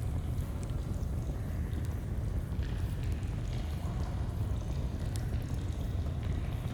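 Steady rush of a flowing stream, heavy and rumbling in the low end, with a few faint sharp crackles from a campfire.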